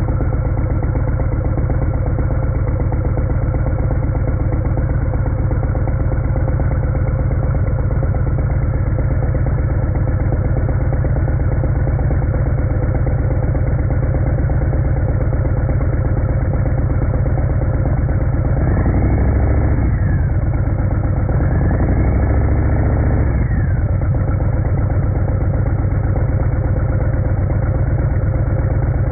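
Harley-Davidson Fat Bob's Milwaukee-Eight 114 V-twin idling just after a cold start, with the throttle blipped twice about two-thirds of the way through. When the engine is cold, the owner hears a clatter from inside the primary case, which he suspects is a worn compensator spring.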